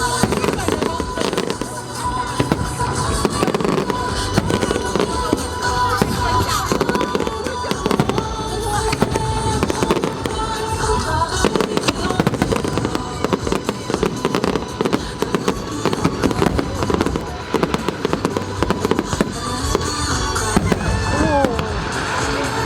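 Fireworks bursting and crackling in a dense, continuous barrage of rapid bangs, with music playing under it.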